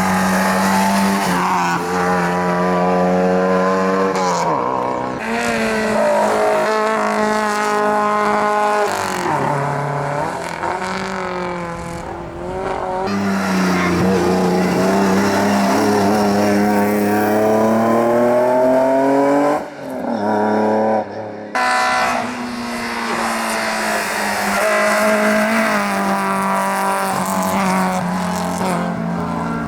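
Hillclimb competition cars driven flat out, engines revving high with the pitch repeatedly climbing and dropping through gear changes. There are several abrupt breaks as one run cuts to the next, and some tyre squeal.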